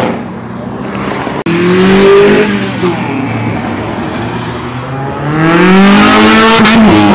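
Performance car engines revving hard under acceleration, climbing in pitch twice: once about a second and a half in, after an abrupt break, and again over the last couple of seconds.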